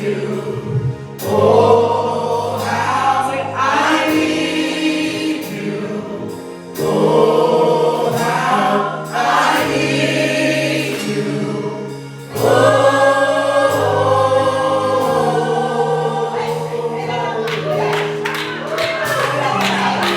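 Gospel choir singing with instrumental accompaniment over sustained bass notes.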